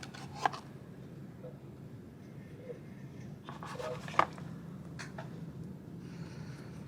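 Steady low room hum with a few sharp clicks or knocks, the loudest about four seconds in.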